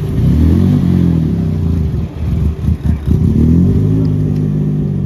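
A car engine revving. Its pitch climbs over the first second, stutters in a few quick throttle blips around the middle, climbs again, then settles to a steady run.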